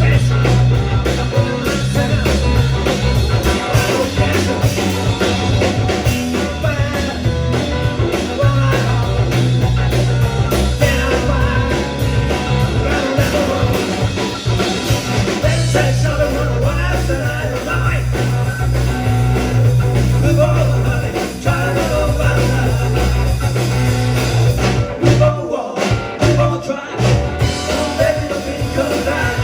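Live rock and roll band performing with singing and a strong bass line. Near the end the band drops out for a few short stops before coming back in.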